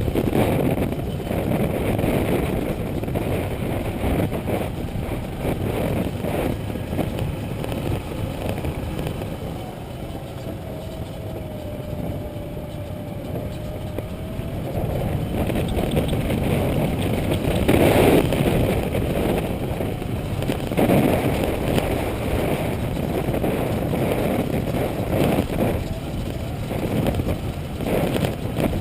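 Motorcycle engine running as the bike rides along a forest road, with wind buffeting the microphone. It eases off and goes quieter for a few seconds in the middle, then picks up again.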